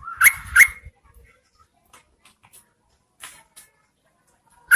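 Yellow-vented bulbul calling: two short, sharp rising notes in quick succession, a fainter pair about three seconds in, and another loud note at the end. It is a female's call used as a lure to draw males to answer.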